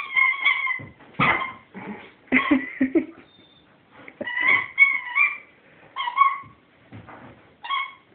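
Rubber squeaky toy squeaking in several short bursts of high squeals as a Great Dane chews and mouths it, with knocks and rustles of the toy and the dog's jaws in between.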